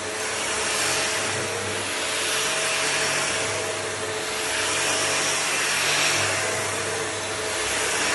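Electric floor sanding machine running steadily, its sound swelling and easing about every two seconds.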